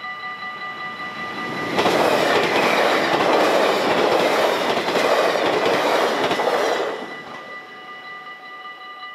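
A yellow-and-blue NS double-deck passenger train passing at speed over a level crossing. A loud rush of wheel and rail noise starts suddenly about two seconds in, lasts about five seconds and dies away quickly. Under it the crossing's electronic warning bell keeps ringing.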